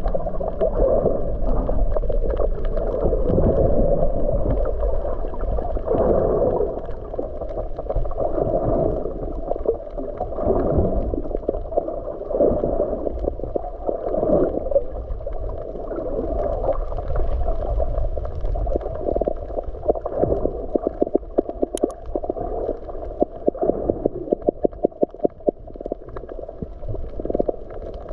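Muffled underwater water sound from a submerged camera while snorkeling: gurgling and sloshing that swells and falls every couple of seconds, with a quick run of clicks near the end.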